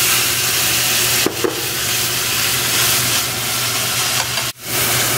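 Minced pork with chili bean sauce sizzling in a hot wok as a spatula stirs it. A steady frying hiss, with a small click about a second in and a sudden brief break near the end.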